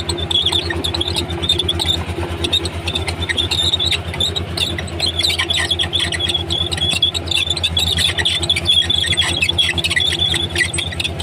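Komatsu D31P crawler bulldozer's diesel engine running steadily with an even low throb, while its steel tracks squeal in irregular high bursts as it moves, more often in the second half.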